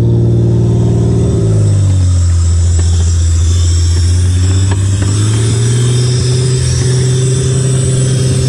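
Freshly rebuilt supercharged 3.8-litre L67 V6 of a Holden VY Commodore ute running on its first start-up. Its revs drop back about a second and a half in, then it runs steadily, picking up a little past the middle.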